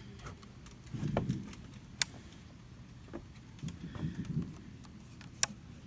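Distant fireworks: dull low booms about a second in and again around four seconds, with two sharp cracks, one near two seconds and one near the end. The booms are far enough off that they could pass for thunder.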